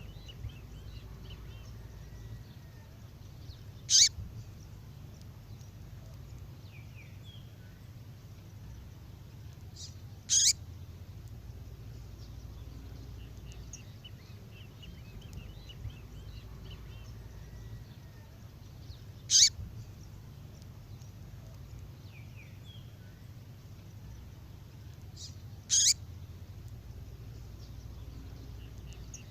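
Female songbird's call: one short, sharp, high call, repeated four times several seconds apart. Faint chirps of other birds and a low steady rumble lie underneath.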